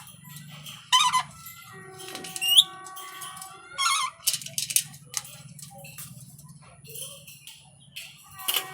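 Pet parrot calling: a few short, sharp squawks, with a rising whistle and held, steady tones about two to three seconds in, over a steady low hum.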